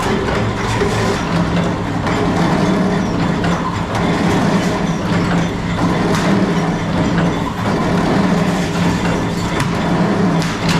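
Workshop machinery running with a steady low hum under a dense noisy din, with scattered sharp clicks and knocks.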